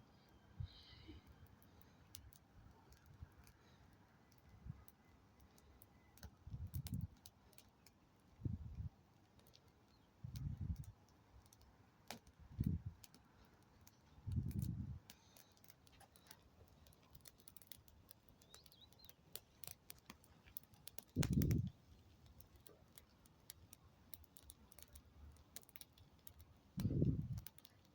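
Wood fire crackling, with scattered sharp snaps and pops, and now and then a short low rumble.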